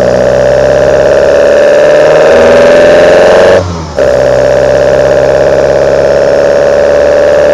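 Intake roar from the Kadett GS 16v's 16-valve engine breathing through twin side-draft Solex C40 ADDHE carburettors, loud and rising slowly in pitch as the revs climb under load. About three and a half seconds in the sound cuts out briefly, then the intake picks up again and keeps climbing.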